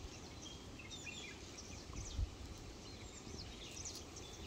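Faint, scattered bird chirps over quiet outdoor background noise, with one brief low thump a little after two seconds.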